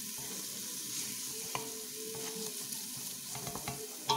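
Yellow turmeric spice paste frying in oil in a stainless steel pot while a wooden spoon stirs it: a steady sizzle with a few clicks and scrapes of the spoon against the pot, the sharpest one at the very end.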